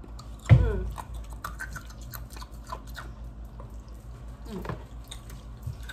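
Close-up chewing and crunching of crispy fried chicken tenders, a string of small crackling clicks, with one loud thump about half a second in.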